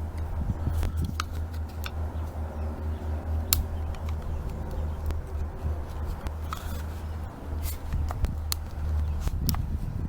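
Scattered sharp clicks and taps of small plastic carburetor primer parts being handled and pulled apart, over a steady low hum.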